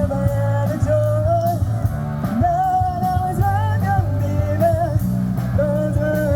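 A rock band playing live with a singer holding long notes over guitar, bass and drums.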